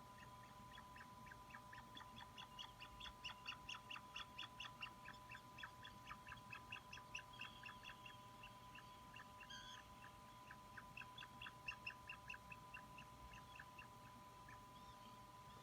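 Atlantic puffin chick peeping: a fast run of short, high chirps, about four a second. This is typical begging calling, heard over a faint steady electrical tone.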